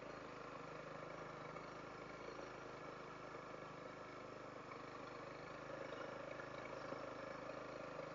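Honda CRF300L's single-cylinder engine running steadily while riding at low speed on a dirt road, heard faintly.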